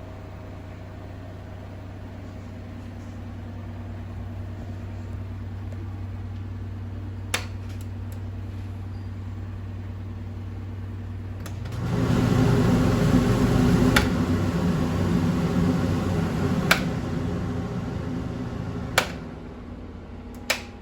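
Range hood exhaust fan running with a steady hum; about twelve seconds in its airflow jumps louder, as at a higher fan speed, and drops back near the end. Several sharp clicks are heard over it.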